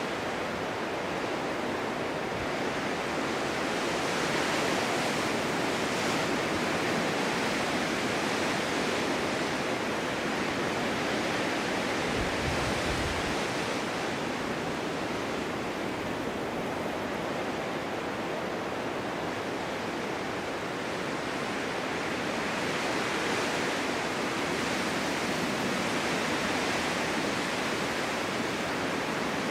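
Snowstorm wind blowing steadily as an even rushing hiss, swelling a little about five seconds in and again over the last few seconds. A brief low rumble comes about twelve seconds in.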